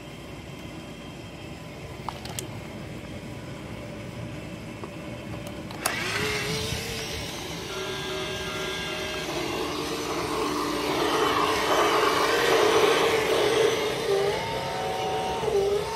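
Toy Christmas train's small electric motor running with a few clicks. About six seconds in, a click sets off its electronic sound effects: held tones and a hiss that grows louder, then a tune of stepped notes begins near the end.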